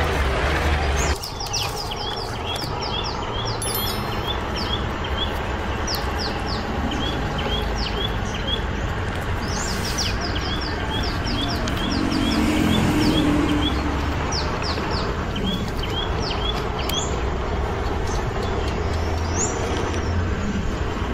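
Small birds chirping: a long run of short, quick chirps repeated over and over, over a steady background hiss.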